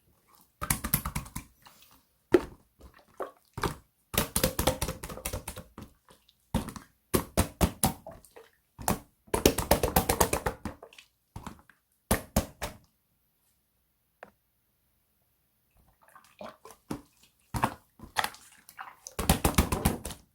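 Slime being squeezed and pressed by hand, giving bouts of quick wet clicks and pops with short pauses between them, and a longer pause near the middle.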